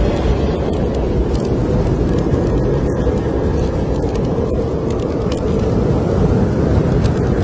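Steady low roar of snowstorm wind, with faint scattered crackles of a wood fire in a fireplace.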